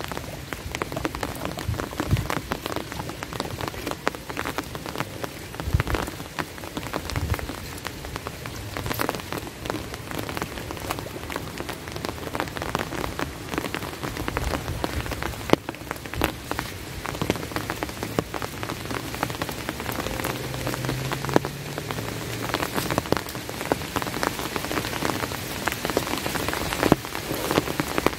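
Steady rain falling, with many sharp drops tapping close by over the continuous hiss of the downpour.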